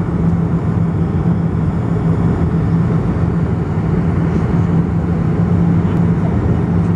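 Steady engine and airflow noise inside the cabin of a Fokker 100 airliner: an even rush with a constant low hum under it.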